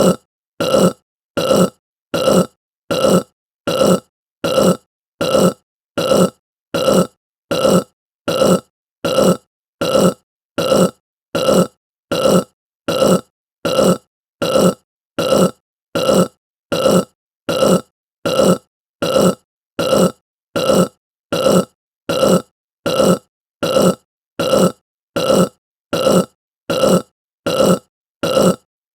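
A person burping: short burps repeated at an even pace, a little more than one a second, with silence between them.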